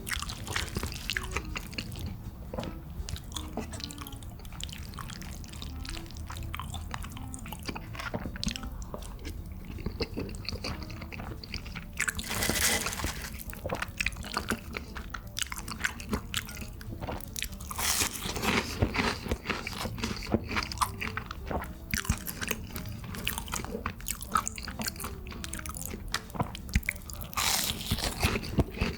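Close-miked eating: a person chewing and biting, with crunchy bites and wet mouth sounds, a few louder bursts now and then.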